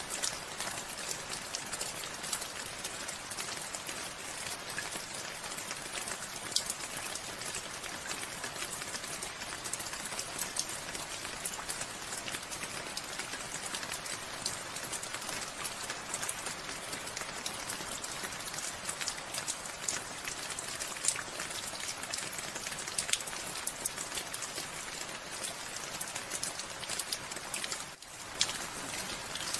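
Steady rain falling, an even hiss with many individual drops ticking on surfaces. Near the end the sound dips briefly for a moment before carrying on.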